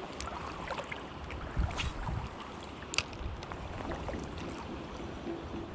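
Wind gusting across the microphone in an uneven low rumble over the steady rush of a full-flowing creek, with a few sharp ticks about two and three seconds in.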